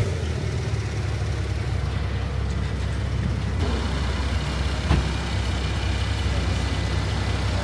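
Porsche 911 Carrera's flat-six engine running with a steady low rumble, with a single short click about five seconds in.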